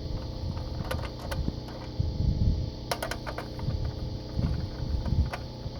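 Scattered sharp metallic clicks of a 10 mm wrench and bolts being worked loose from a generator's recoil starter housing, a few at a time, over a low, uneven rumble.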